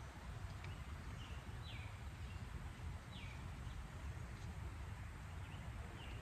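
A bird calling outdoors: a short note that drops in pitch, repeated a few times, over a steady low rumble.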